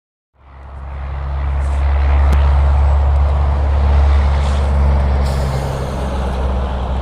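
Heavy diesel truck going by: a deep engine drone with tyre and road noise. It swells over about a second and a half, is loudest a few seconds in, then eases off slowly.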